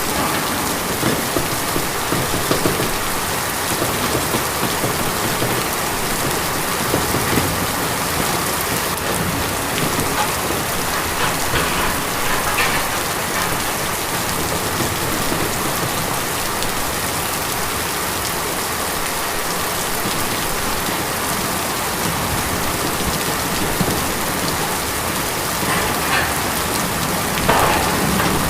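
Steady rain falling on a tin roof: a dense, even patter with a few louder drops striking now and then.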